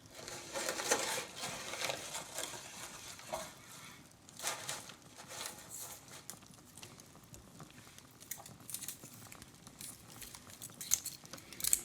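Irregular soft clicks and rustles from handling handmade star ornaments, with the crackle of a fireplace.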